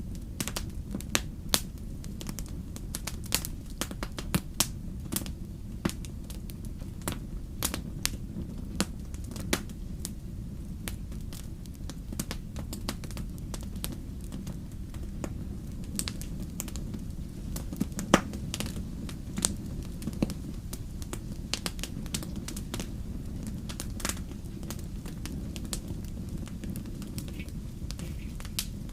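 Fire crackling, with irregular sharp pops and snaps over a steady low rumble of flames; one pop about 18 seconds in is louder than the rest.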